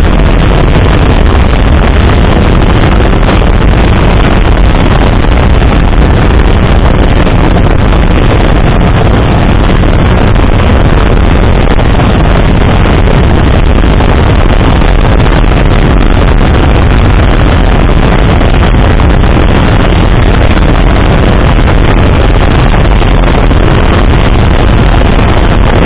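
Heavy wind buffeting on the microphone of a moving bike, a loud, steady rumble with no clear engine tone.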